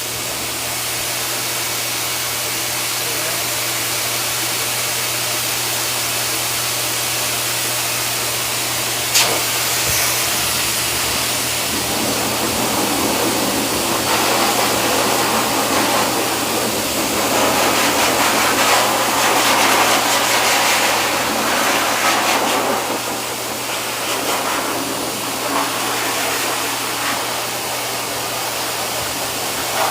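Pet grooming dryer blowing steadily: a rushing air noise over a constant motor hum, with a sharp click about nine seconds in and the rush turning more uneven from about fourteen seconds on.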